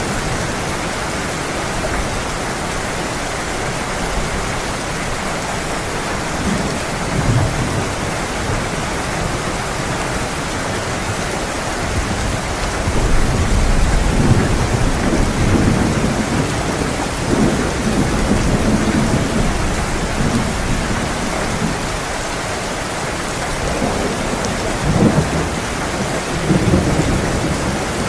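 Heavy rain falling steadily, with several low rolls of thunder rumbling under it, the longest about halfway through and two more near the end.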